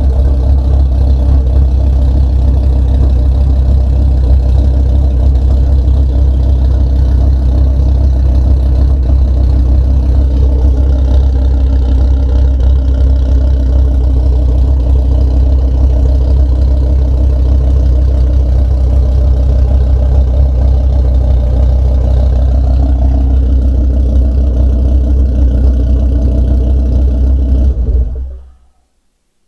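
Engine idling steadily on its first start, then switched off near the end and dying away within about a second.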